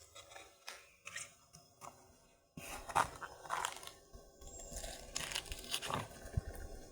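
Dry kithul palm material crunching and tearing in irregular crackles, growing louder and denser a little over halfway in.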